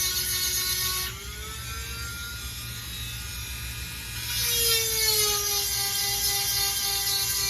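Dremel-type rotary tool with a 7/32 grinding stone, whining at high speed while sharpening the cutters of a chainsaw chain. About a second in, the grinding noise stops and the motor's pitch rises slightly as the stone comes off the tooth. Around four and a half seconds it bites into the next cutter: the grinding hiss returns and the whine sags under load.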